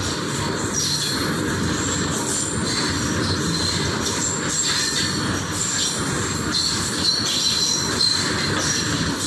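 Freight train of covered goods wagons rolling past: a steady rumble of steel wheels on the rails with thin, high squealing tones and a few sharp clacks.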